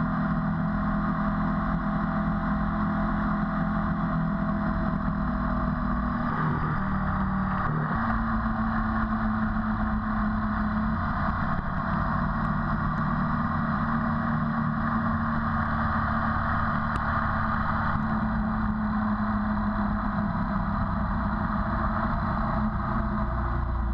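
Ducati 848's V-twin engine running steadily at road speed, heard from the bike with wind rush over it. The engine note breaks off briefly about six seconds in and settles again at a slightly lower pitch.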